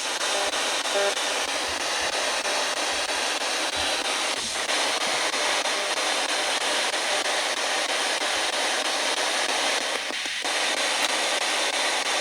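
Spirit box (a scanning radio used in ghost hunting) sweeping through stations, giving a steady hiss of radio static with two brief dips, about four and a half seconds and ten seconds in.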